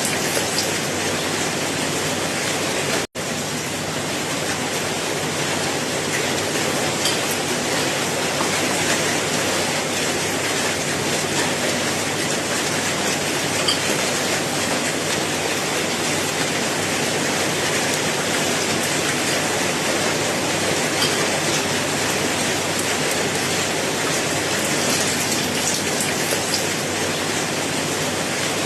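Steady rain falling as a dense, even hiss with scattered drop hits. The sound cuts out for a split second about three seconds in.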